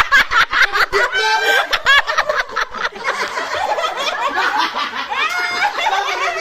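Several people laughing together, with rapid bursts of laughter in the first couple of seconds and mixed chuckling and giggling after.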